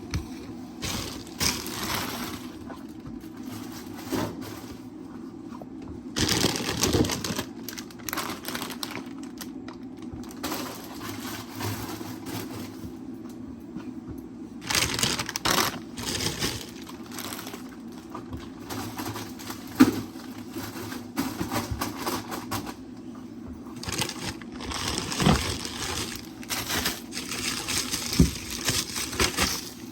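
Intermittent rustling, knocking and clattering of objects being handled, with a few sharp clicks, over a steady low hum.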